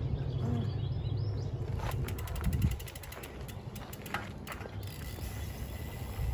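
Mountain bike rear freehub ratcheting: a fast run of clicks as the wheel coasts, about two seconds in, and another short burst of clicking a little later. A low rumble fills the first couple of seconds.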